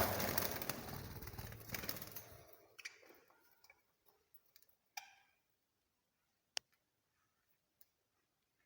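A broad noise fades out over the first two and a half seconds, then a few sharp clicks and one short chirp from small cage birds about five seconds in.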